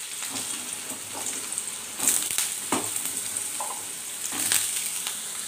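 Diced raw potatoes frying in very hot mustard oil in a kadai, a steady sizzle, with a few sharp clicks over the top.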